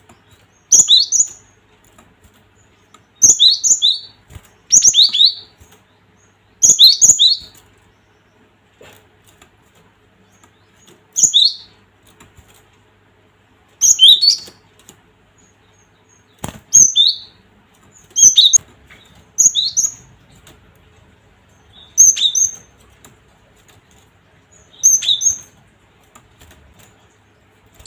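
Cinereous tit (gelatik batu) calling: short, sharp, high-pitched call phrases repeated in loud bursts every one to three seconds, about a dozen in all.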